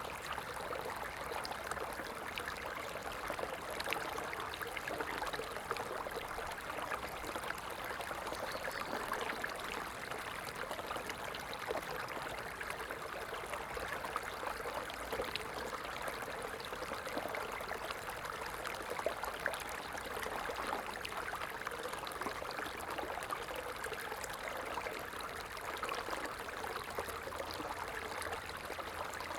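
Stream water running and trickling steadily, a continuous bubbling rush without pauses.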